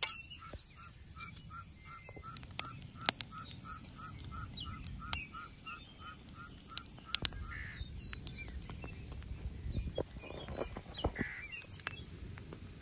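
A bird calling with an even run of repeated short notes, about three a second, which stops about six seconds in, while other birds chirp. A few sharp snaps cut across it; the loudest comes about three seconds in.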